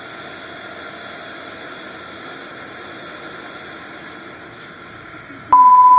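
Steady low hiss, then about five and a half seconds in a loud, steady single-pitched beep cuts in abruptly: a censor bleep.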